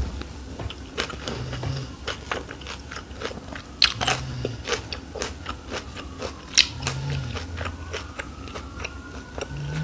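Close-miked chewing of a shrimp summer roll: wet mouth clicks and the crunch of fresh lettuce inside the rice-paper wrap, with two sharper crunches about four and six and a half seconds in.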